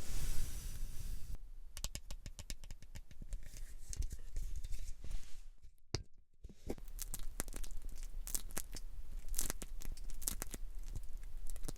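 Close-miked crackling and scratching of hair and scalp being worked in an ASMR scalp treatment. A soft hiss gives way after about a second and a half to dense crackles, which pause briefly about halfway through.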